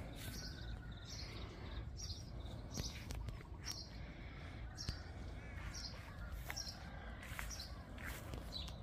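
A bird calling over and over, short high chirps about once a second, over a steady low rumble with a few faint clicks.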